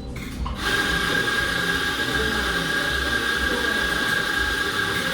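Cafe coffee equipment switched on about half a second in: a loud, steady rushing noise with a single high, constant whine over it.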